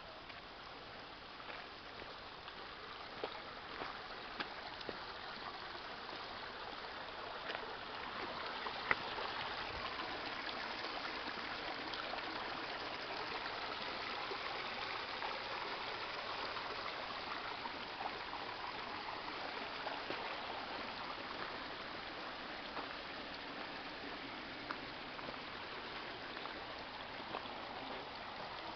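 Mountain stream flowing, a steady rushing of water that grows louder about a third of the way in and holds, with a few scattered sharp clicks.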